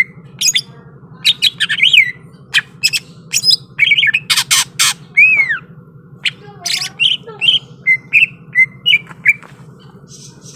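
Cucak ijo (green leafbird) singing an agitated, fast song of sharp clicks, squawks, short whistles and downslurred notes, closely packed with brief gaps. A faint steady low hum runs underneath.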